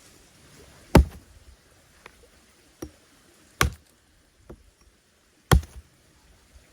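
Three loud, sharp wooden knocks a couple of seconds apart, with a few lighter clicks between: firewood being chopped.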